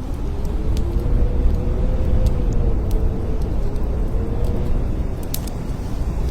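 Blizzard wind blowing hard: a steady low rushing rumble with a faint howling tone that slowly rises and falls, and scattered sharp little ticks.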